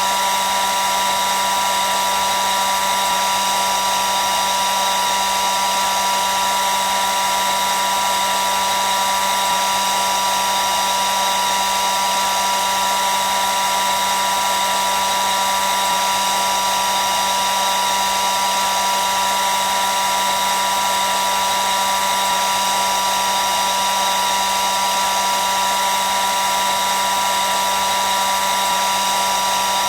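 Hair dryer running steadily: a constant rushing hiss of air with a high motor whine and a lower hum, unchanging throughout.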